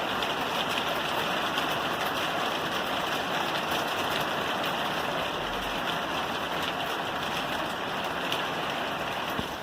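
Rain falling steadily on a roof: an even, dense hiss of many small drop ticks.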